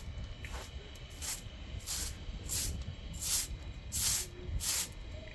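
A series of short swishing strokes, roughly one every half to three-quarters of a second, growing louder about two seconds in.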